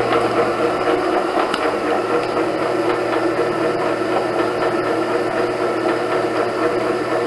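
Leifeld PLB 1200 spinning lathe running under power, with its hydraulic system on: a steady machine drone with several held hum and whine tones. The lowest hum shifts about a second in.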